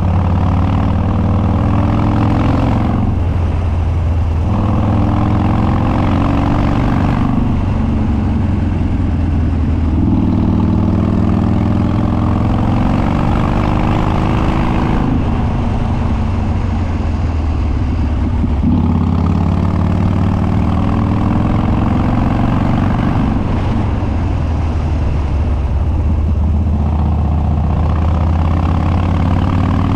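2013 Harley-Davidson Dyna Street Bob's Twin Cam V-twin, Stage 2 with Andrews 48H cams, open air filter and unbaffled upswept dual exhaust, pulling under load on the ride: the engine note climbs in pitch and drops away about five times as the rider accelerates and eases off or shifts.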